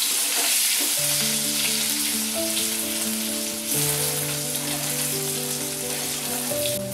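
Chunks of potato sizzling steadily as they fry in hot mustard oil in a wok, turned now and then with a spatula. Soft background music with long held notes comes in about a second in.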